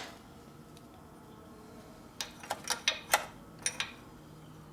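Metal hand tools clinking: a wrench tried on a bolt, giving a quick cluster of about eight sharp metallic clicks about two seconds in.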